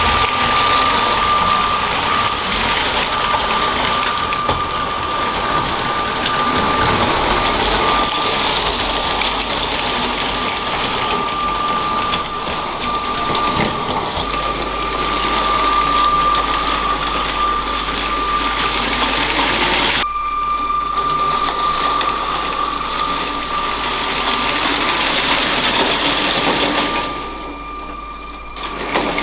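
A LEGO train running on plastic track: its small electric motor gives a steady high whine over the rattle of wheels on the track. The sound drops away briefly near the end.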